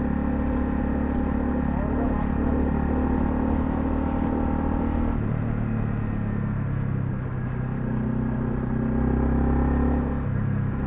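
Honda CL250 motorcycle engine running under way, with a steady note that drops in pitch about halfway through and then rises again toward the end.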